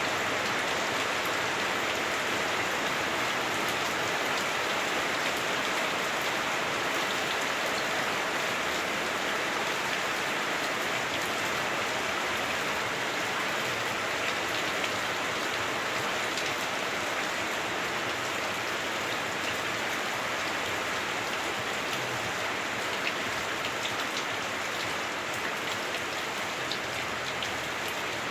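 Heavy rain pouring steadily on a house roof, heard from indoors as a dense, even hiss with many small drop ticks.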